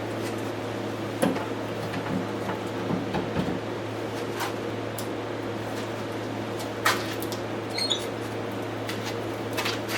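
Kitchen work noises: scattered light clicks and knocks from handling utensils and dishes over a steady low hum. There is a louder knock about 7 seconds in and a brief high squeak just after it.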